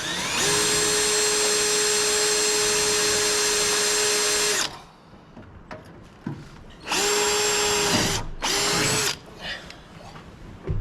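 Electric drill boring a hole through the Jeep's metal body, with lube on the bit, running at a steady speed: one long run of about four seconds, then two short bursts.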